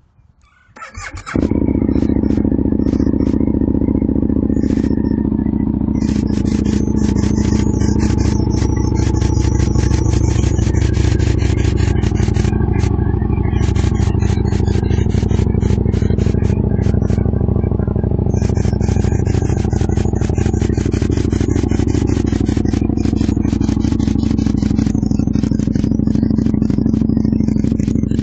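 2007 Aprilia Tuono 1000R's V-twin engine, fitted with GPR slip-on exhausts, started about a second in, then running steadily at idle with a fast mechanical ticking over the exhaust note. Its pitch drifts slightly up and back down in the second half.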